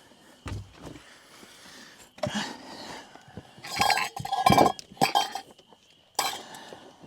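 Camp dishes and cookware clinking and clattering as they are gathered up, in several irregular bursts, the loudest about four seconds in.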